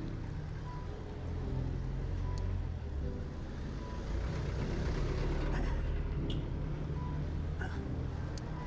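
Road traffic noise: a motor vehicle's low engine rumble, swelling and easing as it passes, with faint short beeps now and then.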